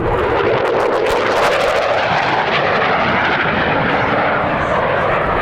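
Jet noise from an RAF Eurofighter Typhoon's twin Eurojet EJ200 turbofan engines during a display pass, a loud, steady rushing sound.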